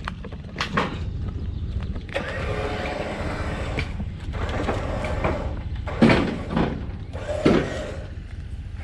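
A steady low engine rumble, with a mechanical whine for about a second and a half a couple of seconds in, and two loud knocks near the end.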